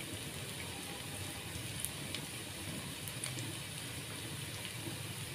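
Tempeh and garlic frying in hot oil, a steady sizzle with a few faint crackles.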